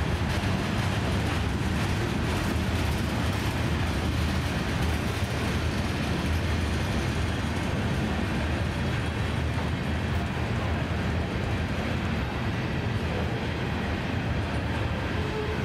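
A freight train's covered hoppers and tank cars rolling past, a steady low rumble of steel wheels on the rails.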